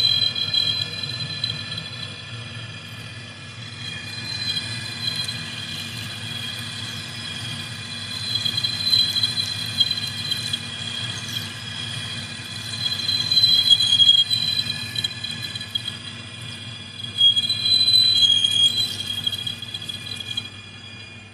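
Metal lathe cutting a steel workpiece, the cutting tool giving a high-pitched squeal that swells and fades several times over the low hum of the running machine.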